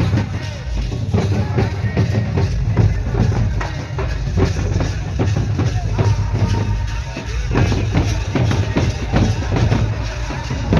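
Loud drum-led music with a steady bass drum beat and dense percussion strokes.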